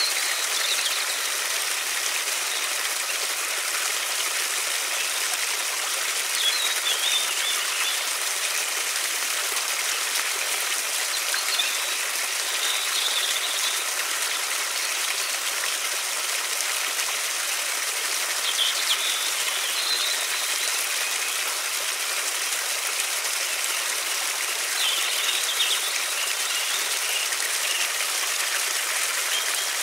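River water flowing steadily, with a small bird chirping briefly every few seconds.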